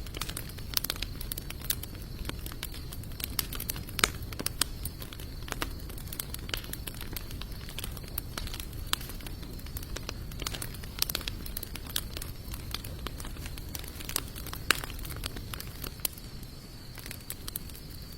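Campfire of sawtooth oak and mixed hardwood logs crackling, with a steady scatter of sharp pops over the low rumble of the flames. A few louder snaps stand out, about four seconds in and again near the end.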